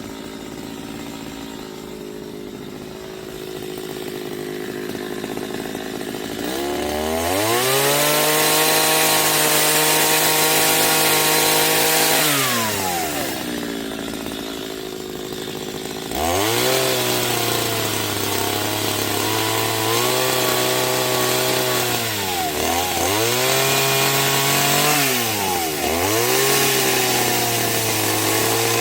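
Small two-stroke chainsaw engine, quieter at first, then revved up to a high steady pitch about seven seconds in and let back down after about five seconds. It is opened up again a few seconds later, and the pitch dips briefly three times during that second run.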